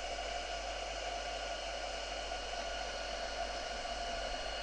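Craft embossing heat gun running steadily, an even blowing hiss with a faint motor whine, as it melts embossing powder until it bubbles.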